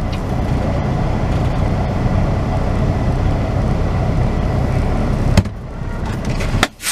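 Semi truck's diesel engine running with a steady low rumble, heard from inside the cab. A sharp click about five seconds in, after which it is quieter, and another click just before the end.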